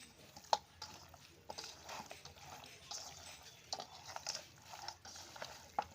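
Raw chicken being mixed by hand with ground spices, mustard oil and salt in a bowl: soft, faint mixing sounds with a couple of sharp clicks, one about half a second in and one near the end.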